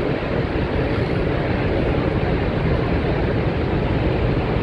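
Steady, even roar of rushing water from Niagara Falls, deep and unchanging in level.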